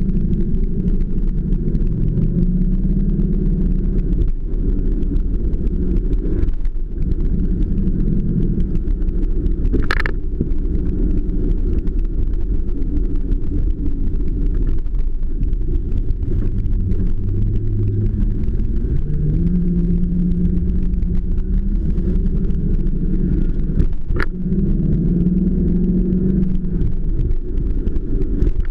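1986 Mercedes-Benz 560 SL's 5.6-litre V8 running on the move, heard from the driver's seat over steady road noise; the engine note rises and falls several times as the car speeds up and slows. Two short, sharp clicks, about ten seconds in and near the end.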